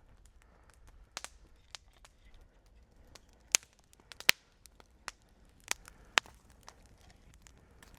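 Dry wood snapping and popping: irregular sharp cracks a second or so apart, the loudest in the middle.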